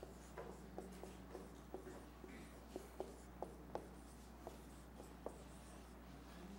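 Marker writing on a whiteboard: a string of faint, short strokes and taps as the letters are drawn, over a low steady hum.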